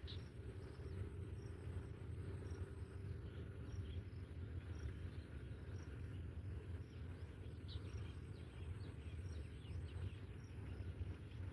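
Outdoor ambience: a steady low rumble under a faint, high, regular chirp that repeats roughly every half second to second, with a few brief higher chirps in the second half.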